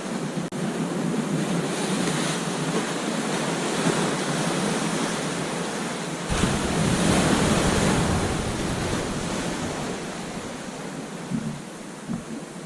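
Ocean surf breaking on a beach: a steady wash of waves that swells into a louder crash about six seconds in, then slowly subsides.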